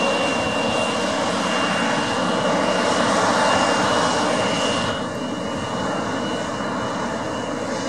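Boeing 737-700's jet engines running: a steady rush with a high whine held on one pitch, dropping a little in level about five seconds in.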